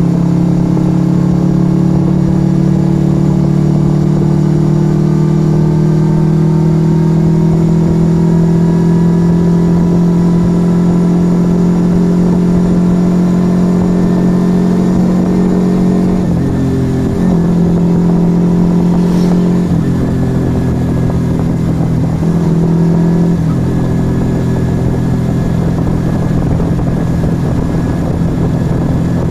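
Yamaha XV125 Virago's small V-twin engine through an aftermarket Turbo Kit exhaust, riding along with its pitch slowly climbing. In the second half the throttle is eased off and picked up again a few times before the engine settles to a lower, steady note, with wind rush underneath.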